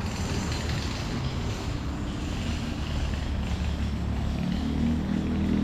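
A motor vehicle's engine running close by, a low steady hum whose pitch and loudness rise during the last second or so.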